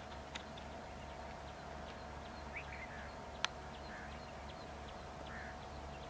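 Birds calling in a garden: scattered short chirps and a few harsh calls over a steady background hum. A single sharp click sounds a little past the middle.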